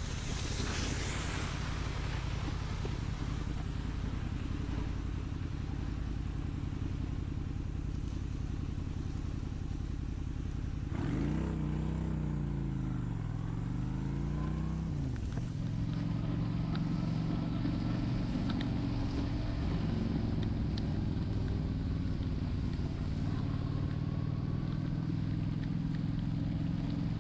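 Honda Shadow 750 V-twin engine running steadily under way. About eleven seconds in, the revs fall and climb back over about four seconds, then the engine settles into a steady, slightly louder cruise.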